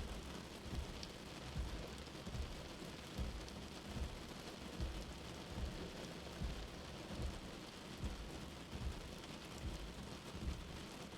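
Steady rain with a slow, regular heartbeat thumping low underneath it, about 75 beats a minute.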